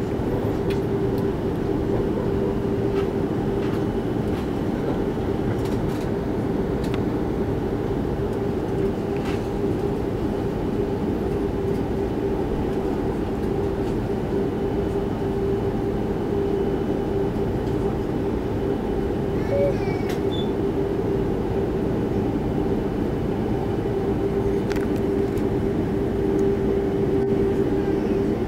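Steady cabin noise of an Airbus A330-300 on the ground, heard from inside the cabin: the engines run at low power with an even rumble and a constant hum, and a few faint clicks come through.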